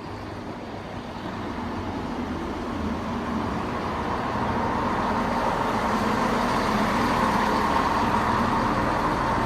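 Diesel multiple unit train's engines running and growing steadily louder, with a rumbling rail noise building alongside, as the train gets under way at the platform.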